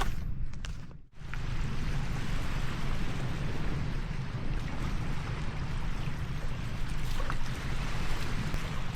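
Ocean waves washing steadily on a beach with a low wind rumble, after a brief drop-out about a second in. A few light clicks in the first second.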